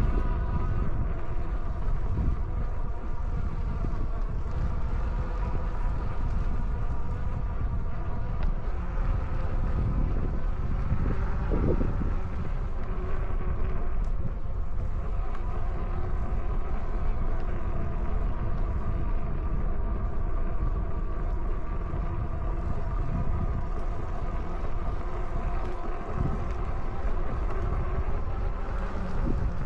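Wind buffeting the microphone on a moving Rad Power e-bike, over the steady whine of its electric hub motor.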